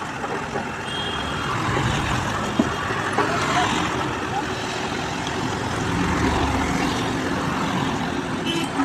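Heavy diesel machinery engines running steadily, with a continuous rumble and traffic-like noise.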